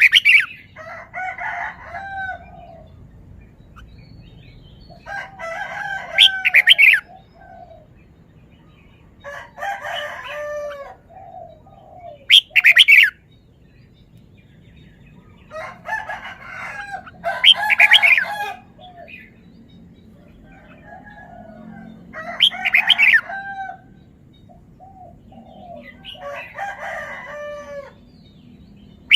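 Red-whiskered bulbul singing: short, loud phrases of quick whistled notes, about seven phrases spaced a few seconds apart.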